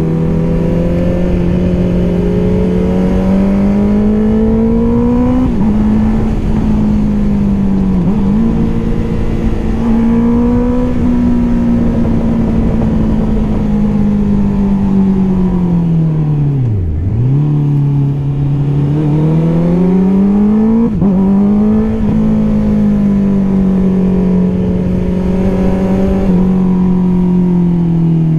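Honda CBR650R's inline-four engine through an Akrapovič exhaust, pulling and shifting on the move: the revs climb and fall several times, with quick drops at gear changes and one deep fall about halfway through before it pulls hard again. A low rush of wind runs underneath.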